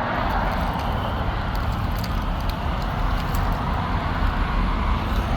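Steady vehicle noise: a low rumble under a broad, even hiss, typical of trucks idling and traffic around a truck stop, with a few faint ticks near the end.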